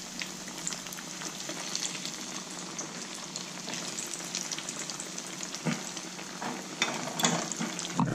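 Breaded eggplant slices frying in hot oil in a pan: a steady sizzle with crackling pops, and a few louder clicks past the middle and near the end.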